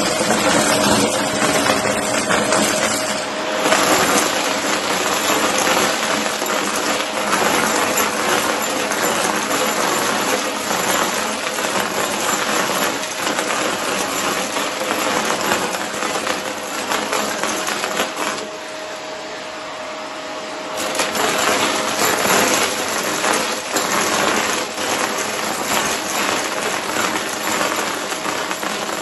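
Shark vacuum cleaner running with a steady hum while it sucks up pieces of cardboard, which clatter and rattle through the floor head. The rattling thins out for a couple of seconds about two-thirds of the way through, then picks up again.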